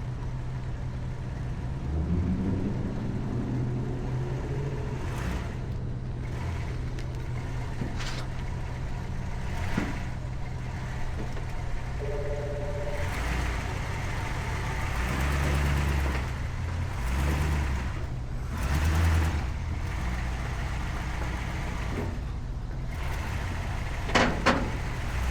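The 1956 Ford Thunderbird's V8 engine running as the car is driven up onto a trailer, revving with a rising pitch about two seconds in and in several short surges later, over a steady low engine hum. A couple of sharp knocks come near the end.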